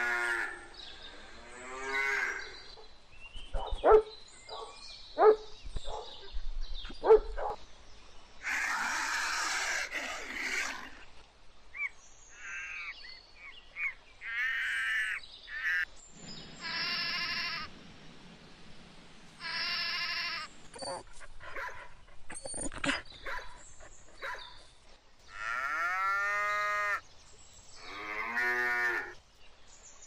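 A string of separate livestock calls, cattle mooing among them, some long with a bending pitch. A run of loud, sharp knocks comes a few seconds in.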